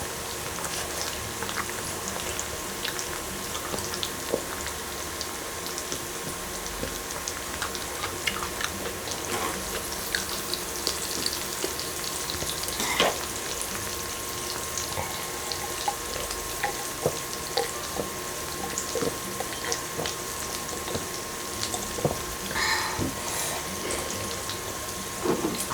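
Beef tripe sizzling on an electric grill: a steady hiss with scattered pops and clicks and a faint steady whine.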